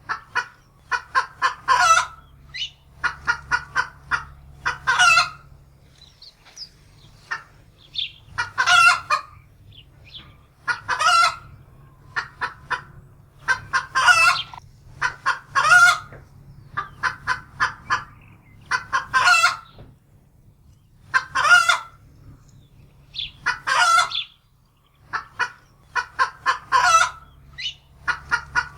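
Domestic hen cackling in alarm: runs of quick clucks that build into a loud, drawn-out squawk, over and over every two to three seconds.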